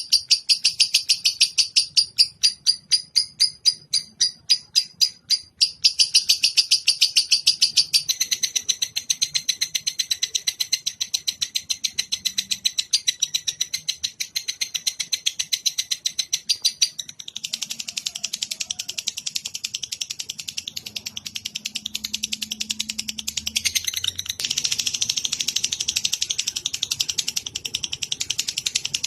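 A small songbird's rapid, high-pitched chirping, several notes a second. After about eight seconds it runs together into a continuous dense trill, and from about seventeen seconds into a thicker, rattling chatter.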